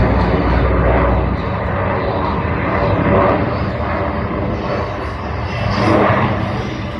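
Jet noise from an F-22 Raptor's twin F119 engines in flight, loud, swelling and easing several times as it passes.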